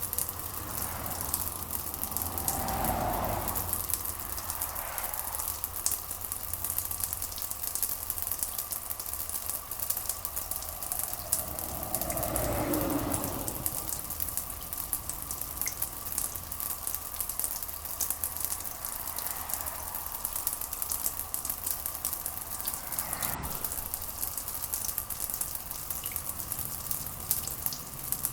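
Steady rain pattering, a dense crackle of drops over a low steady hum, with a few brief muffled swells about three seconds in, around the middle and near the end.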